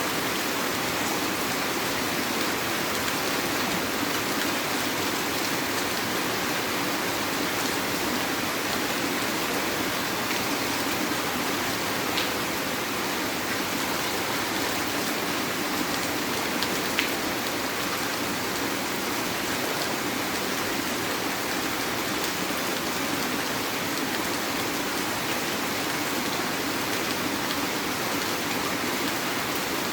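Heavy rain falling steadily, an even hiss with a couple of single louder drops striking something near the middle.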